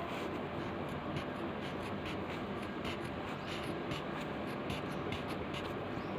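Pencil scratching on paper in short, irregular strokes as a leaf is sketched, over a steady background hiss.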